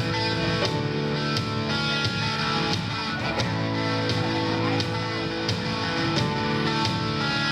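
Live rock band playing an instrumental passage: electric guitar over a steady drum beat.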